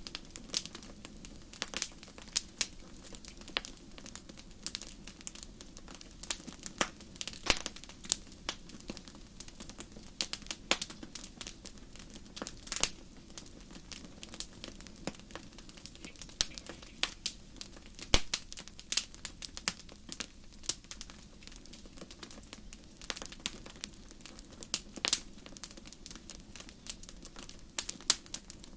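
Wood fire crackling, with many irregular sharp pops and snaps over a steady low hiss.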